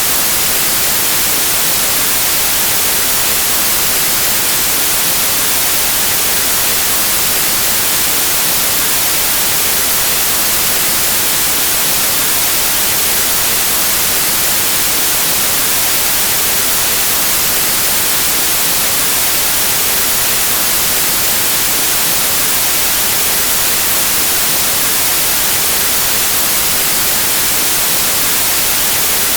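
Steady white noise: an even, unchanging hiss of static with no pattern or events, bright and strongest in the treble.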